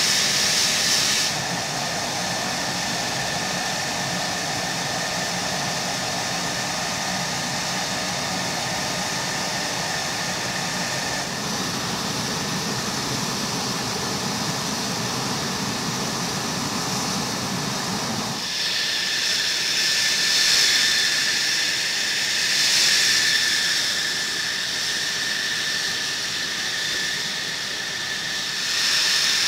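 F-16 jet engine running at idle, a steady rushing hiss with a high whine. The sound shifts abruptly about a second in and again about 18 seconds in.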